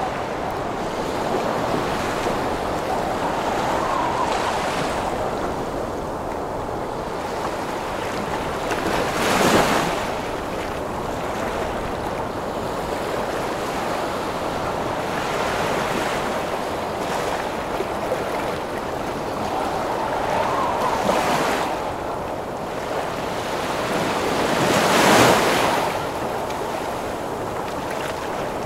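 Storm wind blowing hard over heavy sea waves, with a howling note that rises and falls. Two big waves break loudly, about a third of the way in and again near the end.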